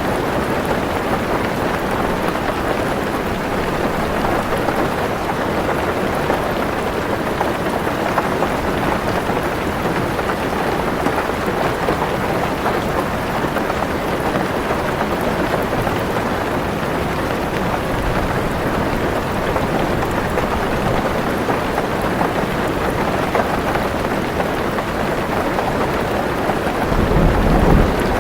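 Heavy rain falling steadily on a car's roof and windows, heard from inside the car, with a low rumble of thunder swelling near the end.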